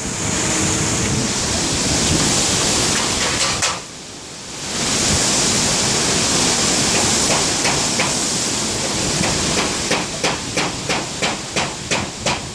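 Strong storm wind rushing and buffeting the microphone, easing briefly about four seconds in. Near the end, a rapid series of sharp knocks, about three a second.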